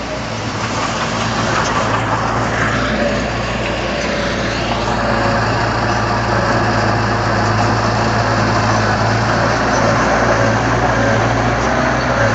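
Heavy earthmoving machine's diesel engine running steadily at an even pitch.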